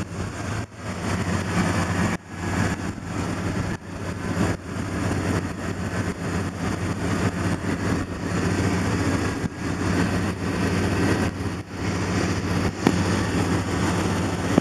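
A vehicle engine idling steadily, its low hum dipping briefly several times.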